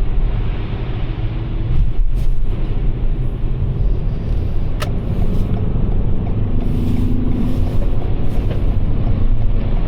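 Steady low road and tyre rumble inside the cabin of a Toyota RAV4 Prime rolling slowly over packed snow and ice on winter tyres, with two short sharp clicks, about two and five seconds in.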